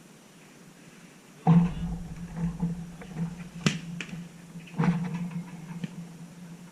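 Sounds of futsal play: a sudden low rumble about a second and a half in, then a few sharp knocks, two of them close together in the middle, over a steady hum.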